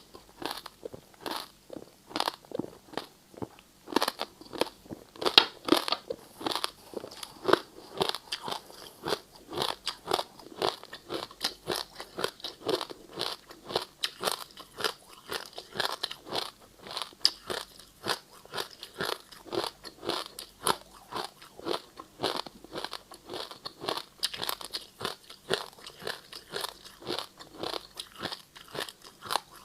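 Ice being bitten and chewed close to the microphone: a rapid, irregular run of sharp crunches, several a second.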